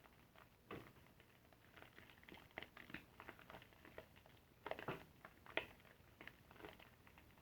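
Soapy car sponge being squeezed and worked, giving faint, irregular wet squishes and crackles of lather, a little louder about five seconds in.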